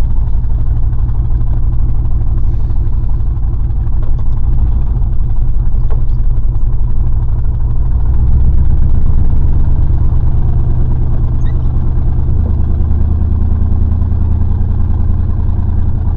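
Old GM pickup truck's engine running while driving, heard from inside the cab, loud and low, with the engine note shifting about halfway through and again later. The engine runs rough: the owner says one cylinder doesn't fire when driving, giving a little cutout instead of a smooth run.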